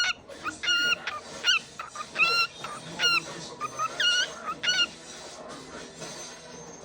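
A bird calling: a run of about eight short, pitched calls in quick succession that stop about five seconds in.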